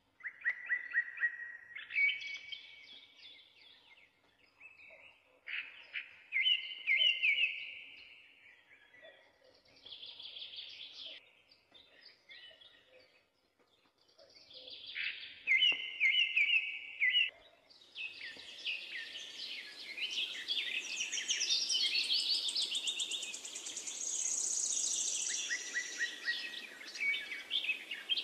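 Songbirds singing in short, repeated chirping phrases, several calls overlapping, with a steady hiss underneath during the last third.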